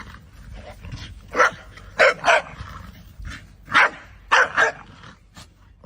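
Dog barking: about half a dozen short single barks, irregularly spaced, some in quick pairs.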